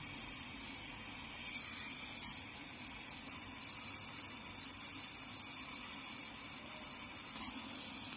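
Gas brazing torch flame hissing steadily while brazing a refrigerator's copper refrigerant pipe joint at the new filter drier.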